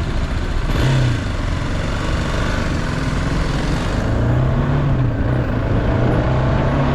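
Motorcycle engine running on the move, its pitch rising and falling a few times with the throttle, over steady road noise.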